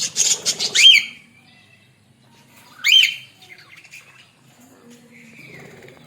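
Australian parrots squawking and chattering: a burst of rapid harsh chatter in the first second, sharp up-and-down calls about a second and three seconds in, and a softer drawn-out call near the end.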